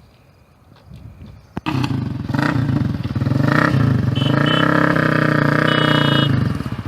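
Single-cylinder engine of a Bajaj Caliber cafe-racer conversion kicked into life about a second and a half in, then revved up and held at raised revs while still cold.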